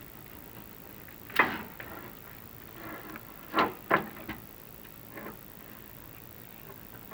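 Chimney inspection camera and its push rods knocking and scraping against the clay flue tiles as it is worked up the flue: a few sharp knocks, one about a second and a half in and two close together around four seconds.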